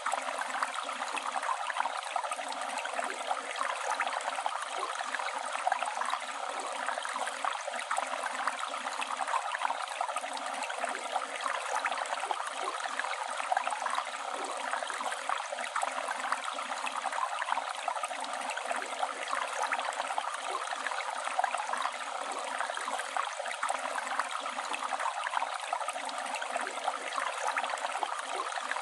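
Flowing river water, a steady rushing and babbling with fine splashing and gurgling that never lets up.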